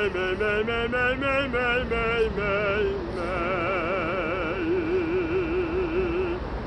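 A singer doing a vocal exercise: a quick run of short notes stepping up and down, then one long held note with a wide vibrato that stops shortly before the end.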